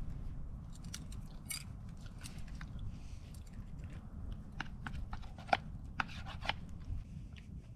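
Cooked steak being cut and eaten: a run of small scrapes and sharp clicks from knife and fork, with chewing, busiest about five to six and a half seconds in.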